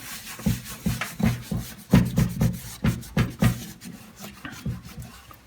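Rubbing and scrubbing on the painted sheet-metal surface of an old Craftsman toolbox as it is cleaned with hand cleaner. Uneven strokes come about two or three a second and grow fainter near the end.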